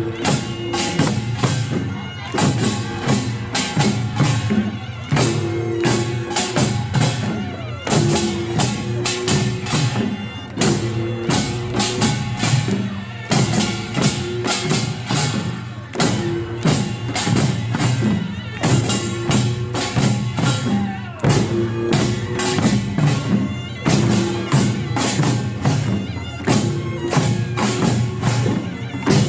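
Korean pungmul percussion band playing a fast, driving rhythm: small hand gongs (kkwaenggwari) clattering densely over hourglass drums (janggu), barrel drums (buk) and a large gong (jing).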